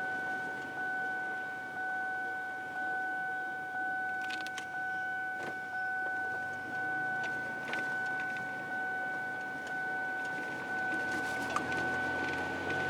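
Car cabin noise while driving, with a steady high-pitched whine throughout, a regular rise and fall in level about once a second, and a few faint clicks.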